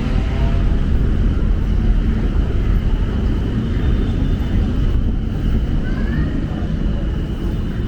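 Steady city street noise, mostly a low traffic rumble, with faint voices of people nearby.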